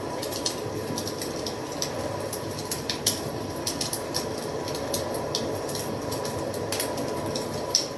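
Fire crackling: irregular sharp pops and snaps over a steady hiss of flames, with a louder pop about three seconds in and another near the end.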